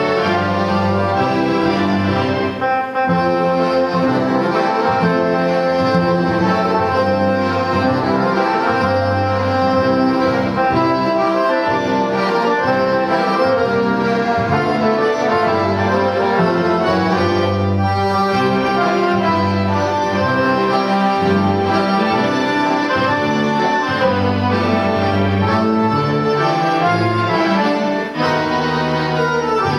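An accordion orchestra playing a Christmas arrangement: many accordions in full chords over a moving bass line, playing steadily throughout.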